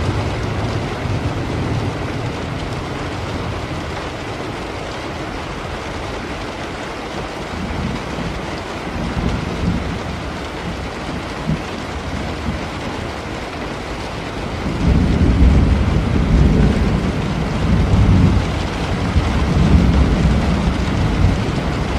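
Steady rain with thunder rumbling. A low rumble dies away over the first few seconds, and a louder rumble rolls in about two-thirds of the way through, swelling in several waves.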